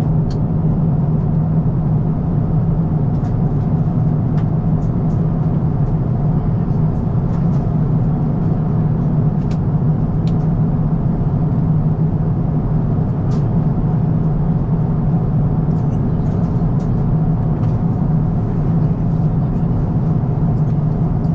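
Steady cabin noise inside an Airbus A350-1000 airliner: an even drone with a strong low hum, with a few faint clicks.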